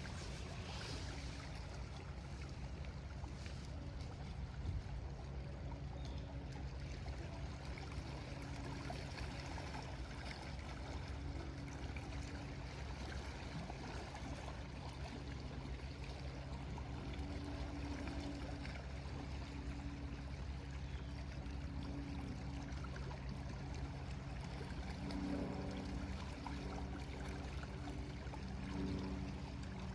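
Small lake waves lapping and washing against the shore in a steady, even wash, with a low steady hum underneath.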